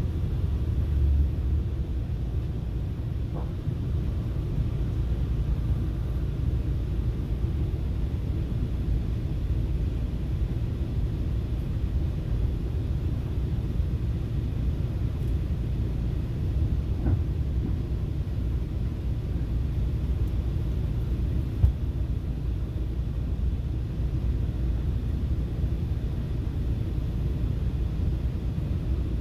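Steady low rumble of a FrontRunner commuter train running along the track, heard from inside the passenger car. A few faint clicks come through, and one sharper tick about three-quarters of the way through.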